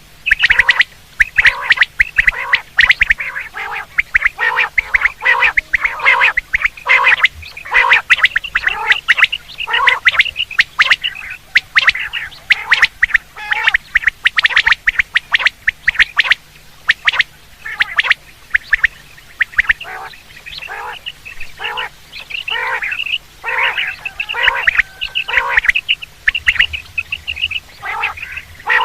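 Common quail (batair) calling over and over in quick, short notes, a loud lure-call recording of the kind played to draw quail in for hunting.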